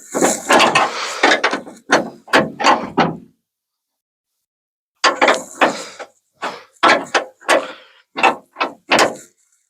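The door window glass of a 1950 Ford F1 is worked in its run channel, making a series of short rubbing scrapes. There are two runs of strokes with a pause of about two seconds between them. This is the glass being tested for smooth travel after the division bar was adjusted.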